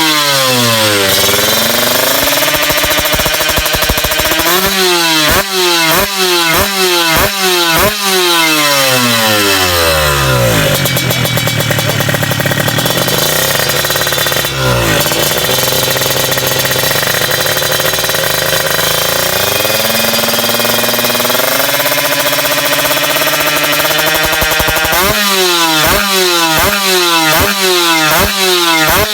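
Tuned drag-bike motorcycle engine being revved while it is set up: quick throttle blips, about two a second, then a long climb to high revs held for several seconds and let fall, then rapid blips again near the end.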